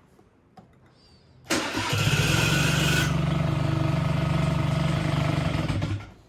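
TGB Bullet 50cc scooter's engine being started: the starter and engine sound begins suddenly, harsh at first, settles into a steady drone for about three seconds, then cuts off abruptly.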